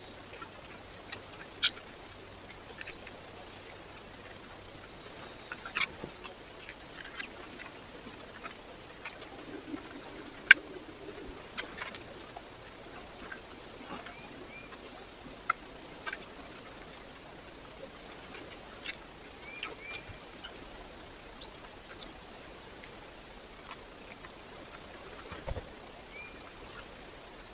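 Small birds at a feeder: irregular sharp clicks and taps and a few short high chirps over a steady hiss.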